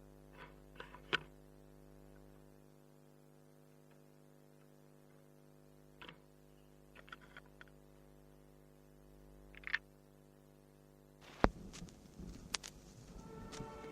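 A pause in an orchestral recording: a steady low hum with a few faint scattered clicks. Near the end there is one sharp click, and the orchestra's strings begin to sound.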